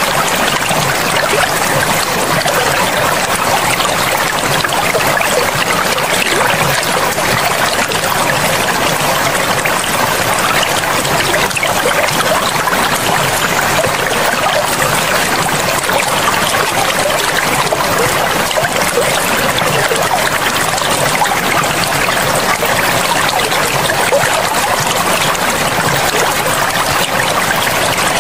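River water flowing over rocks: a steady, unbroken rush and babble of running water.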